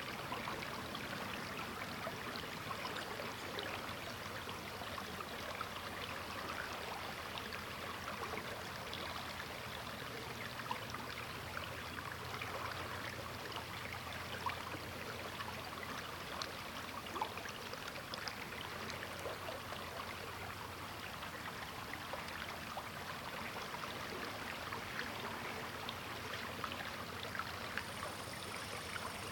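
Sturgeon River flowing steadily, a continuous rush of water with many small splashes.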